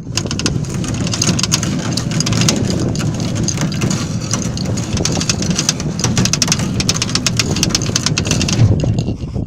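Electric anchor winch hauling up the anchor: a motor running under load with a dense crackling clatter of the line over the drum, switched on at the start and stopping suddenly near the end.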